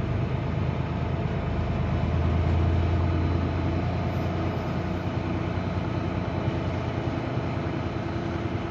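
Semi truck's diesel engine running at low speed as the truck creeps forward. Its low rumble swells briefly about two seconds in, then settles.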